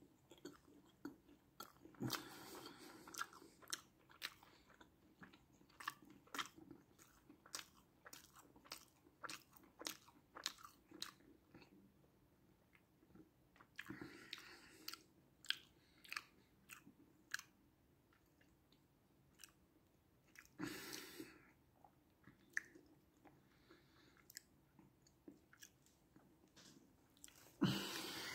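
A person chewing a mouthful of BBQ bacon burger, heard close as a long string of faint, irregular wet clicks and smacks, with a few longer, louder noisy bursts in between.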